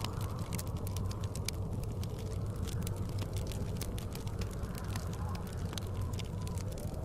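Wood fire crackling in a fireplace, with many quick irregular pops and snaps, over a steady low rumble of blizzard wind.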